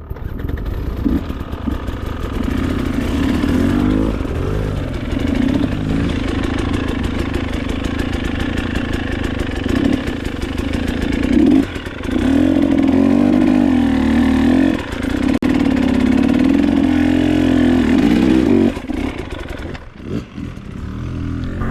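Dirt bike engine revving under load as it climbs a trail, its pitch rising and falling with the throttle. It is loudest over the second half, then eases off near the end.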